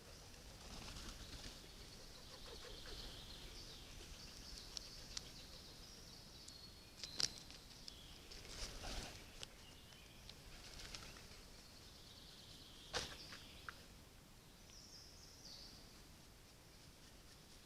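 Faint outdoor ambience with distant small birds calling in high, short chirps, and a couple of sharp clicks, one near the middle and one about two-thirds of the way through.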